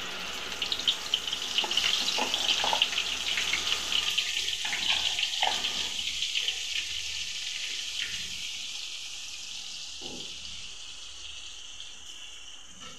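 Wet tomato-onion paste tipped into hot oil in a metal kadhai, sizzling loudly at first and dying down gradually as it settles, with a few knocks of the bowl and spoon early on.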